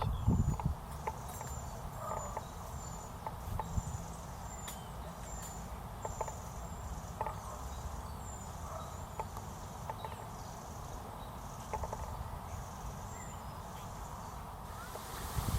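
A small animal's thin, high chirp, repeated about every half second to a second and thinning out after about nine seconds, over a steady low rumble.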